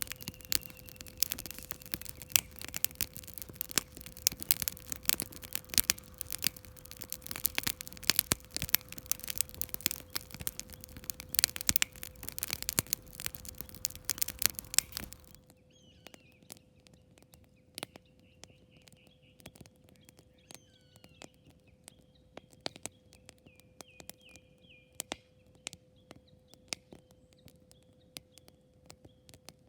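Wood campfire crackling and popping, dense and loud at first, then suddenly sparser and quieter about halfway through. Birds chirp in the background during the quieter part.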